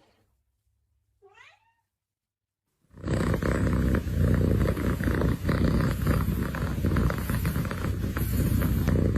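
A cat purring loudly, starting suddenly about three seconds in. Before that there is near silence, broken once by a brief, faint rising call.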